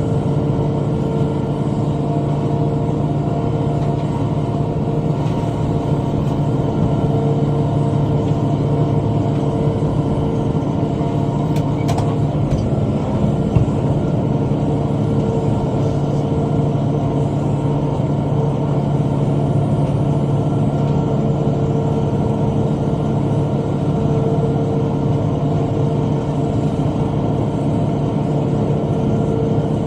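Tractor engine running at a steady speed, driving a rotary cutter (bush hog), with one brief knock about halfway through.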